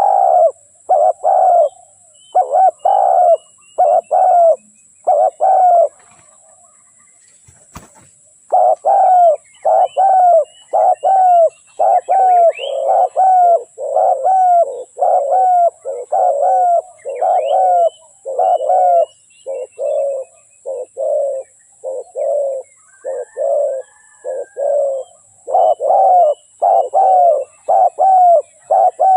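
Spotted dove cooing over and over in a quick, even series, with a pause of about two seconds a little after the start. Faint chirps of small birds sound behind it.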